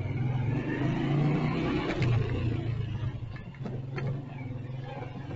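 Motorcycle engine running under way in traffic, pulling harder for the first couple of seconds and then easing off.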